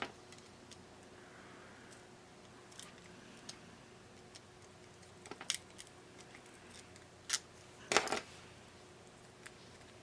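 Scattered small clicks and scrapes of hand tools working inside a radio cassette player, with a short cluster of sharper clicks about eight seconds in.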